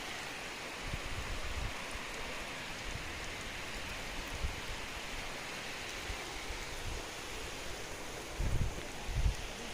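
Steady rain falling, an even hiss, with a few low rumbling bumps near the end.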